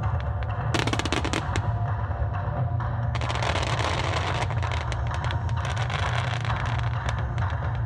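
Fireworks bursting and crackling in dense rapid strings, one short volley about a second in and a longer one from about three seconds in, over music.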